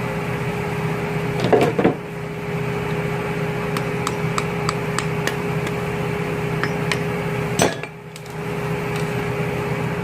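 Light metallic clicks and knocks of hand tools working the stationary-gear keyway out of a 13B rotary engine, over a steady hum. There are a couple of louder knocks near two seconds in, a string of small ticks through the middle, and a sharp knock just before eight seconds.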